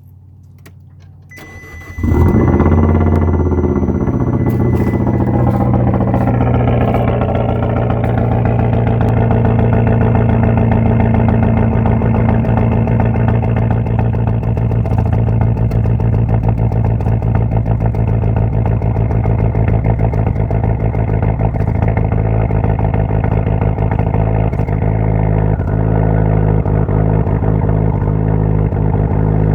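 Car engine cold-started below 20°F. It catches about two seconds in, wavers in pitch for a few seconds, then settles into steady running. It carries an unusual noise that the owner hears only when the car has sat all night at 20°F or less.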